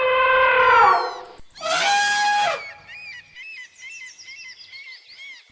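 Elephant trumpeting: a long held call that ends about a second in, then a second, shorter and brighter trumpet blast. After that, small birds chirp quietly and rapidly.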